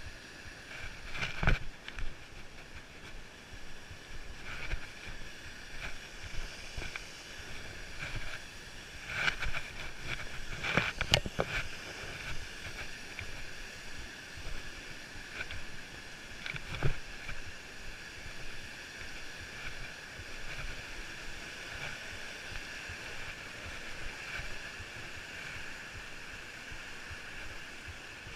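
Wind and handling noise on a GoPro Hero 3's microphone during a walk. A steady high hiss runs throughout, with a sharp knock about a second in, a cluster of knocks and rubs around the middle, and another knock a little later.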